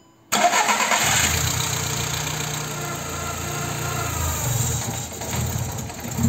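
A Seat Ibiza's 1.4 petrol four-cylinder engine catches suddenly on starting and flares. The revs then fall away, and near the end the running turns uneven. This engine starts and then dies, a fault the scan traced to the coolant temperature sender wrongly reading about −40 °C.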